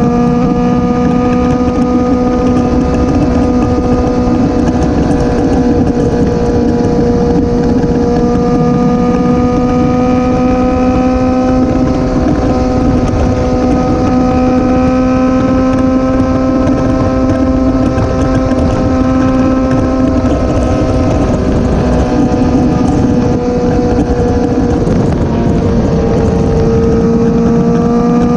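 Motorcycle engine running at a steady cruise, its pitch holding nearly constant, with a brief dip and recovery a few seconds before the end. Heavy wind rush on the microphone is mixed in.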